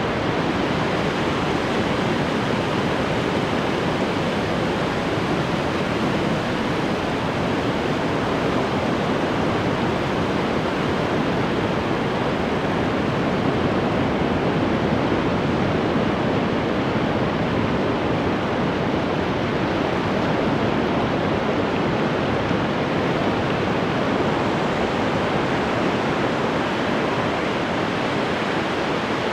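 Ocean surf: a steady, unbroken wash of breaking waves with no distinct surges.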